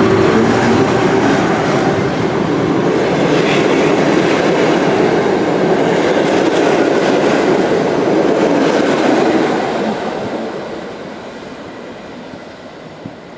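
Passenger train's carriages rolling past, loud and steady, then fading away about ten seconds in as the train moves off.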